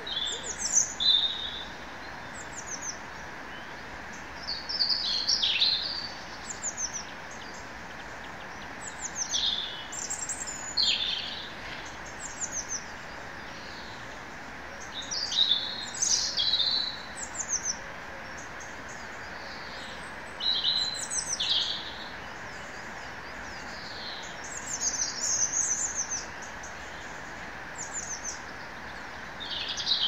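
Songbirds singing: short phrases of high chirps and trills coming every few seconds, over a steady background hiss.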